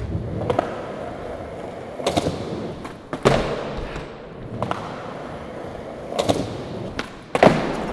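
Skateboard wheels rolling on hard ground, broken by about six sharp board impacts (tail pops, slaps and landings) a second or two apart, the loudest about three seconds in and near the end.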